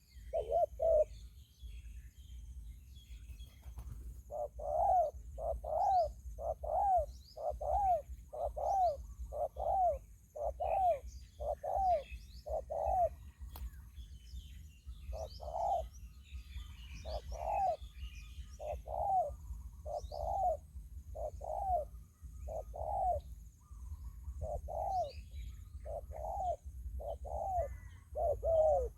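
Spotted dove cooing: a long series of short, arched coos, about one a second, pausing briefly near the middle and resuming. Small birds chirp faintly in the background.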